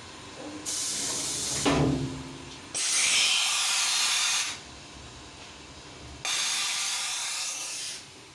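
Compressed air blowing off a freshly machined part in three bursts of hiss, each one to two seconds long, cutting in and off sharply. A brief knock comes during the first burst.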